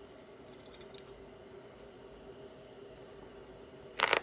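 Costume jewelry being handled: a few faint clicks over a steady low hum, then a short loud clatter of jewelry pieces near the end.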